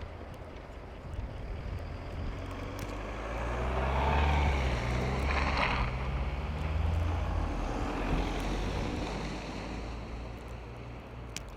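A motor vehicle's engine passing by on a snowy street. Its low hum swells up about four seconds in and fades away again over the next several seconds.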